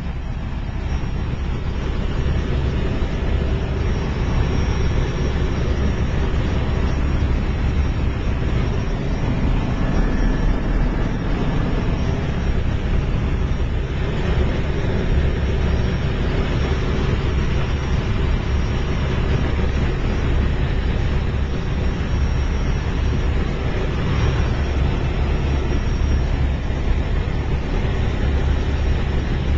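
Loud, steady engine noise of a motorised ride, with wind on the microphone.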